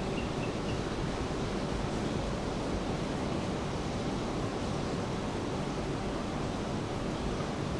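Steady rain falling together with ocean surf, an even, unbroken wash of noise.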